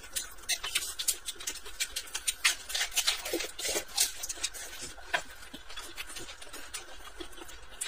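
A person chewing a mouthful of lettuce-wrapped food close to the microphone: a string of irregular crisp, wet mouth clicks and smacks, several a second.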